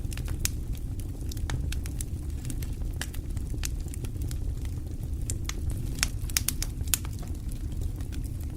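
Wood fire burning in a fireplace: a steady low rumble of the flames with irregular sharp crackles and pops, a cluster of louder pops about six to seven seconds in.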